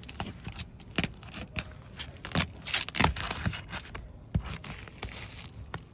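Metal roof snake scraping and prying under asphalt shingles, breaking their seal strips: irregular sharp clicks and scrapes, with a longer tearing scrape about two to three seconds in.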